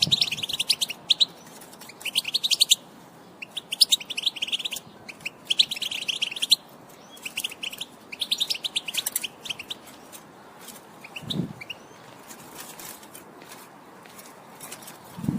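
European goldfinch song: bursts of rapid, twittering chirps, thinning out to scattered notes after about ten seconds. A soft low thump comes about eleven seconds in.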